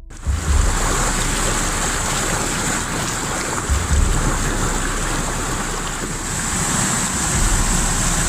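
Steady rushing of a river's flowing water, with wind buffeting the microphone in low thumps a few times.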